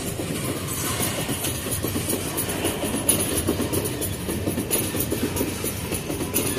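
Empty iron-ore gondola wagons rolling past close by: a steady rumble of steel wheels on the rails, with a few sharp knocks.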